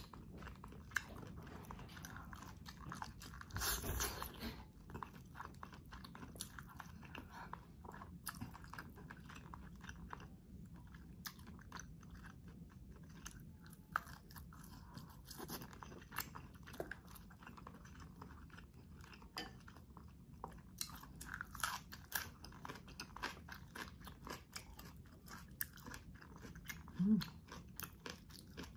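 Close-miked chewing and biting of squid, chili peppers and shrimp, with wet mouth clicks and crunches throughout. There is a louder crunch about four seconds in and a short hum near the end.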